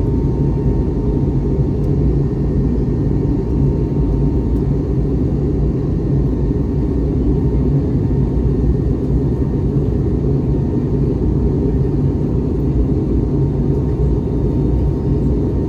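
Cabin noise inside an Airbus A321neo: a steady low rumble of the engines and airflow, with a faint steady whine above it.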